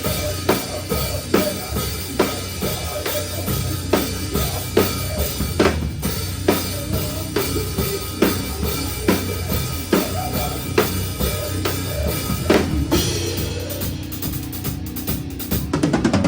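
A live metalcore band played loud, with the drum kit up close and hitting a steady heavy beat of about two strokes a second. Near the end the drum hits drop away, leaving a held note ringing under a wash of cymbal.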